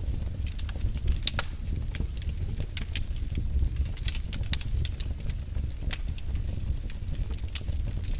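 Fire burning in a fireplace: a steady low rumble of flames with many sharp crackles and pops scattered throughout.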